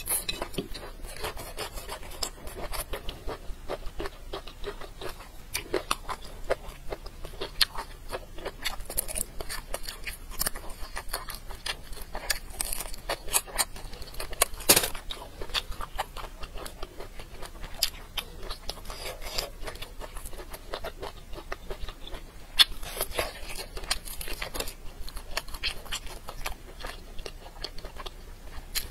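Close-up mouth sounds of biting and chewing braised bamboo shoots: a continuous run of crisp, wet crackles and clicks, with a few sharper crunches, the loudest about halfway through.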